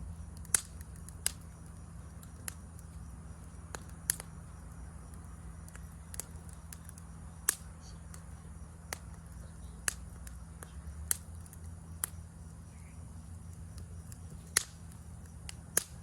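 Wood campfire crackling: irregular sharp pops and snaps from the burning wood, roughly one every second or two, over a steady low rumble.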